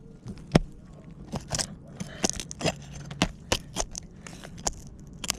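Roof snake working under 3-tab asphalt shingles: irregular sharp clicks and short gritty scrapes of the metal tool on the shingle as it digs into the mat to reach the nails.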